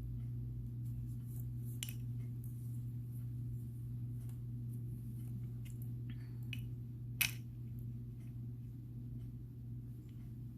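Small clicks of glass and gemstone beads being handled and strung, with one sharper click about seven seconds in, over a steady low hum.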